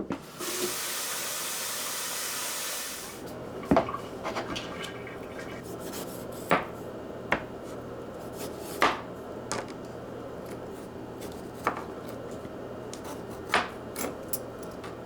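A steady hiss for about the first three seconds, then scattered sharp clinks and knocks of dishes and cutlery, roughly one every second or so.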